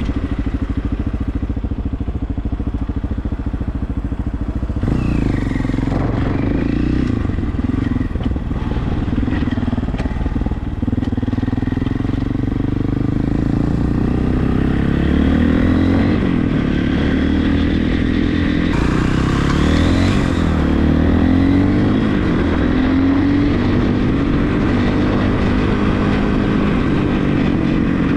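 Regulmoto TE enduro motorcycle engine running under way, its pitch rising and falling as the rider works the throttle and gears.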